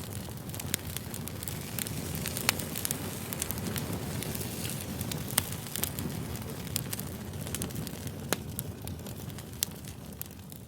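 Crackling campfire: a steady low rumble of flames with sharp pops scattered irregularly throughout, growing fainter near the end.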